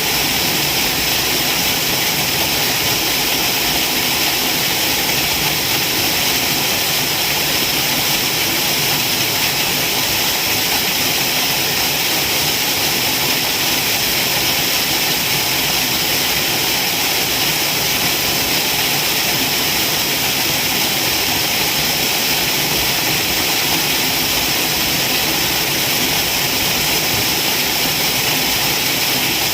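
Waterfall rushing, a steady even roar of falling water with a strong hiss and no change in level.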